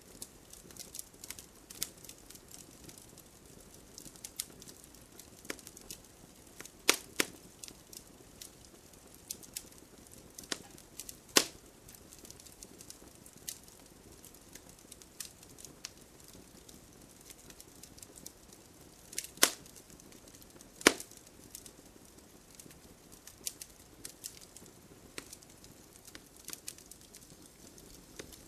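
Campfire crackling: a steady scatter of small snaps and pops from burning wood over a low hiss, with a few louder, sharper pops now and then.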